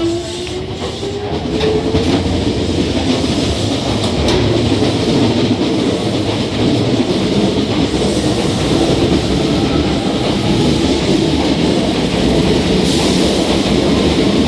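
Hankyu 5100 series electric train pulling out and gathering speed: a motor whine rising in pitch in the first couple of seconds, then a steady loud run of wheel rumble and rail-joint clatter as the cars pass.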